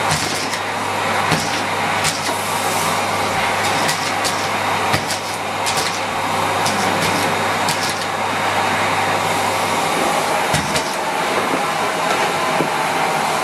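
Miele Complete C3 canister vacuum cleaner running steadily while sucking up biscuit pieces, with frequent short sharp clicks. A low hum under the motor noise drops out about ten seconds in.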